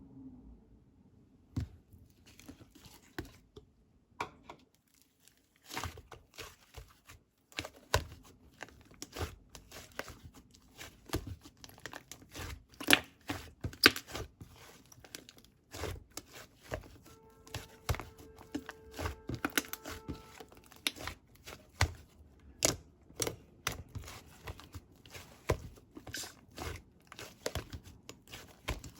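Paper or plastic being handled: a long run of irregular crinkling and tearing rustles with sharp snaps. A faint steady tone sounds for a few seconds around the middle.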